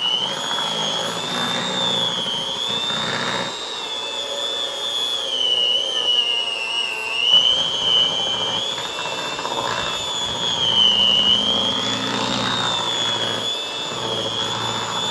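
Electric kitchen mixer motor running, a steady high whine that slowly wavers up and down in pitch as the load on the beaters changes.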